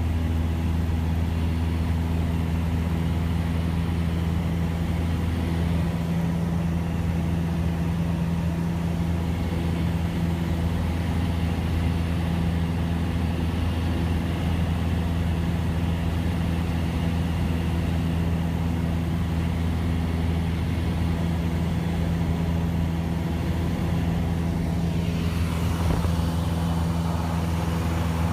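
Cessna 172S's four-cylinder Lycoming engine and propeller droning at a steady pitch. A few seconds before the end, a hiss rises over the drone.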